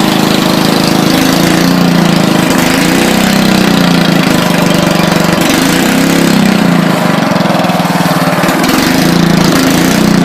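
Straight-piped riding lawn mower engine running loud through its open exhaust stack, its pitch wavering up and down a few times.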